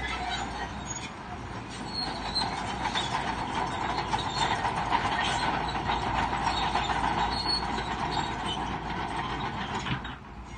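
Crawler bulldozer working: the engine runs under a steady din of steel tracks clanking and squealing.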